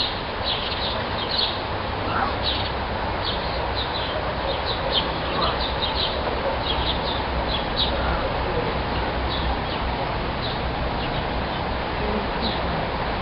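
Small birds chirping in quick short high notes, frequent at first and sparser in the later part. The chirps sit over a steady background hiss and low rumble.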